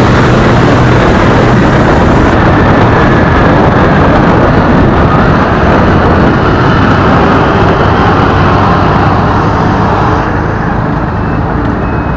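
Wind rushing over the microphone of a motorcycle ridden at speed, with the engine running steadily underneath. The rush eases slightly about ten seconds in.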